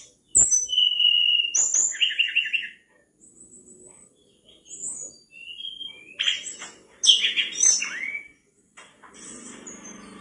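Tledekan bakau (mangrove blue flycatcher) singing hard, in phrases of high clear whistles, chirps and quick rattling note series with short pauses between them.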